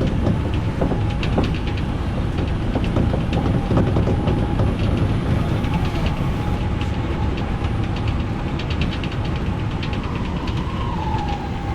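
Odakyu electric commuter train running on rails: a steady rumble of wheels on track with a fast run of clicks from the rails and a faint steady whine.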